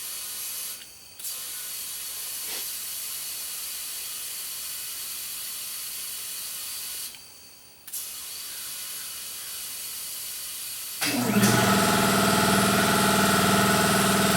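Compressed air hissing steadily into a tire tube, cut off briefly twice. About eleven seconds in, a motor starts up and runs with a steady hum.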